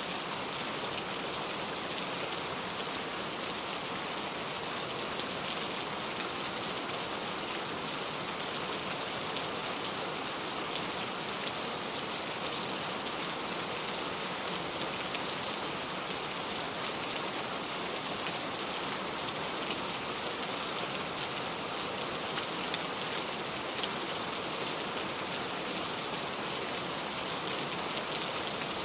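Heavy rain pouring steadily, a dense even hiss with many fine drop impacts on a surface.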